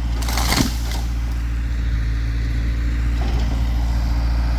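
Backhoe diesel engine running with a steady low drone, and one short burst of noise about half a second in.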